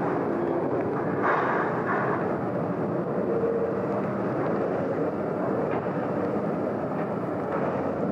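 Heavy diesel machinery running steadily, with a louder rattle between one and two seconds in.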